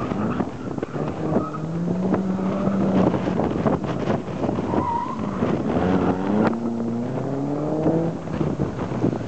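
BMW M3's straight-six engine being driven hard around a coned handling course, its revs rising and falling between turns, with wind buffeting the microphone.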